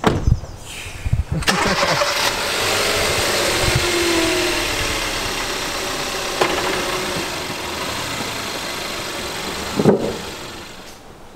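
2014 Kia Soul's engine starting with a brief crank about a second and a half in, then running steadily and settling toward idle: the first start after a new serpentine drive belt was fitted and tensioned. A few thumps come just before the start, and another near the end.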